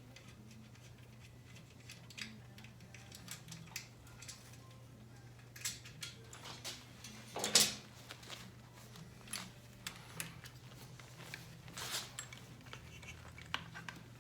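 Scattered light clicks and rustles of hand tools and wiring being handled on a motorcycle, with one sharper clack about seven and a half seconds in, over a steady low hum.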